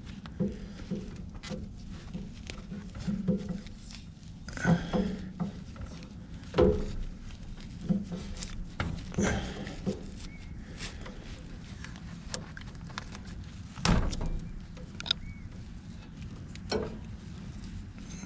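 Electrical tape being pulled off the roll and wrapped around wires by hand: scattered clicks, knocks and brief rasps at irregular intervals, over a low steady hum.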